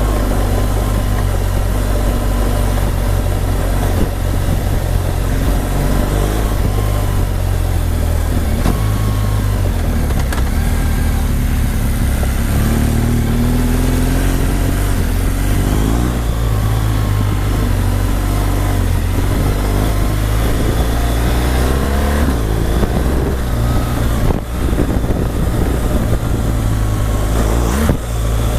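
Motorcycle engine running under way, its revs rising and falling, with heavy wind rush over the microphone.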